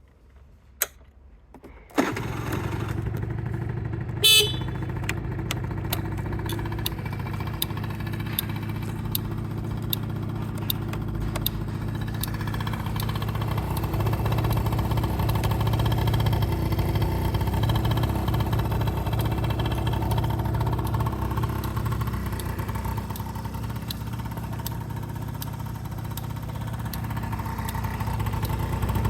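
Honda Live Dio SR scooter's 50cc two-stroke single-cylinder engine starting about two seconds in, then idling steadily with small rises and falls. A short horn beep sounds about two seconds after it starts.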